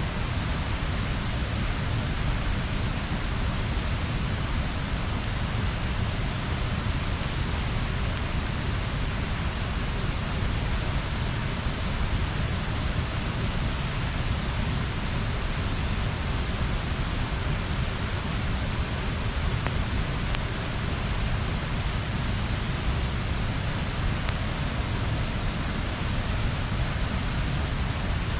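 Bonfire burning with a steady rushing noise, heavy at the low end, and only a few faint crackles.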